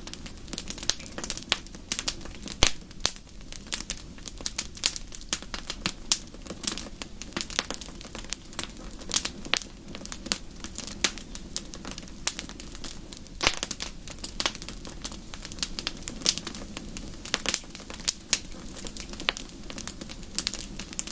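Wood fire in a fireplace crackling, with frequent irregular sharp pops and snaps over a steady low hiss; one louder pop about two and a half seconds in.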